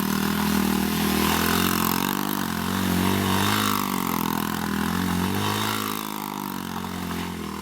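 A 90cc dirt bike engine running, its pitch rising and falling a little several times as the throttle is worked, then fading toward the end.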